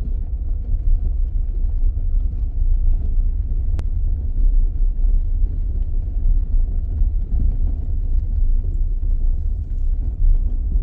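Steady low rumble, with one faint click about four seconds in.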